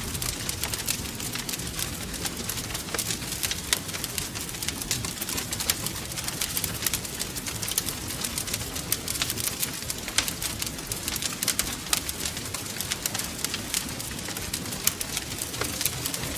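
Wood fire crackling steadily: a dense run of small sharp pops and snaps over a low rumble of burning.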